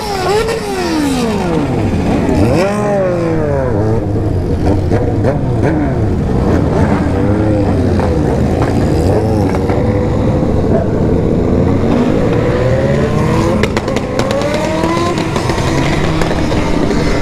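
Several remapped sport motorcycle engines revving and accelerating together, their pitches rising and falling over one another. A quick run of sharp exhaust pops comes about fourteen seconds in.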